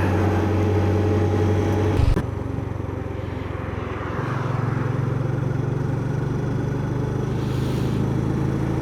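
Motorcycle engine running steadily while riding. There is a sharp knock about two seconds in, after which it goes quieter. About four seconds in it settles into a slightly higher, steady note.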